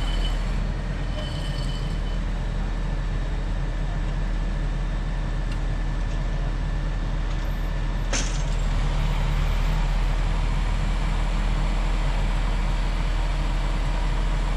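An engine running steadily with a deep low hum, with one sharp click about eight seconds in.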